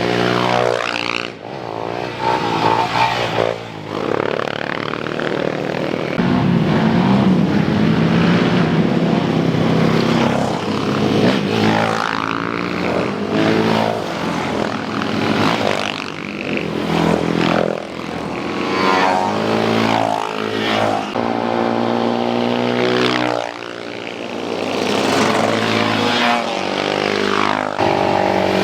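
Motocross motorcycle engines revving hard under load on a steep climb, the pitch rising and falling again and again as the riders work the throttle, with several engines overlapping.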